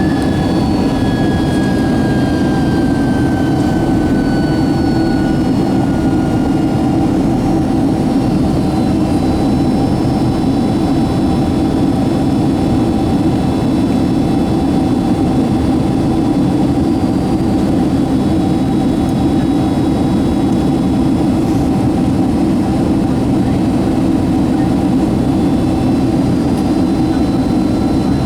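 Steady roar of a Boeing 767-200's twin jet engines heard from inside the passenger cabin. A faint whine falls slowly in pitch over the first several seconds.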